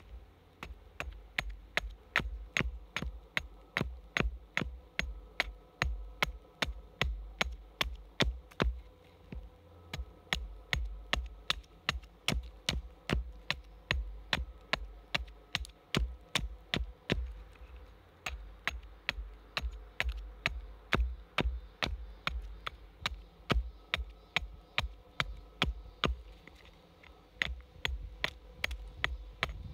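A steady series of sharp knocks, about two to three a second, with short breaks now and then, over a low steady hum of tones.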